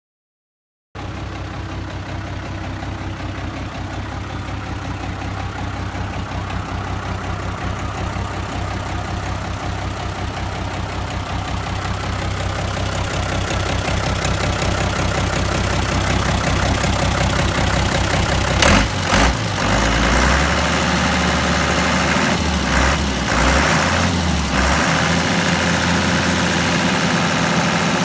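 Isuzu turbo diesel engine of a 1993 GMC W5500 truck idling steadily. About nineteen seconds in come a couple of brief knocks, and after that the engine note shifts and runs a little louder.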